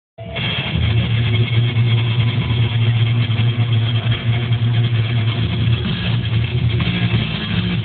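A car engine running steadily, cutting in abruptly after silence, with its low drone shifting in pitch every second or two.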